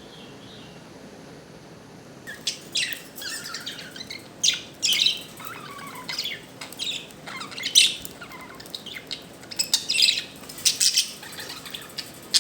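Budgerigars chirping and chattering. For about the first two seconds there is only a faint chirp or two, then a busy stream of short, sharp chirps and warbled calls that runs on to the end.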